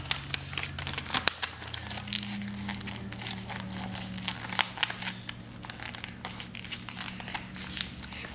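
A sheet of paper being handled, folded and creased by hand, crinkling with many small irregular crackles.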